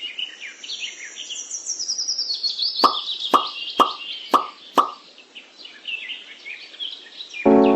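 Birds chirping continuously, with five quick water-drop-like plops in a row about half a second apart in the middle. Music with held notes comes in just before the end.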